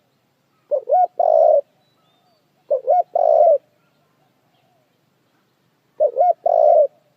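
Puter dove cooing: three calls, each a short, quick double note followed by a longer held coo, a couple of seconds apart.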